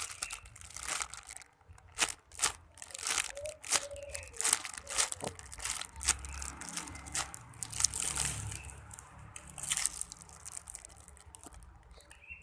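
Plastic bag crinkling and rustling in irregular bursts as a packaged squishy toy is handled and squeezed.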